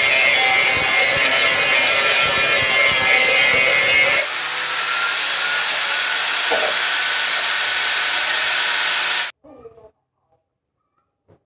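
Electric grinder grinding the edge of a steel blade, a loud steady hiss with a whine. About four seconds in it eases to a lighter, smoother run with a low hum, then cuts off abruptly about nine seconds in, leaving a few faint knocks.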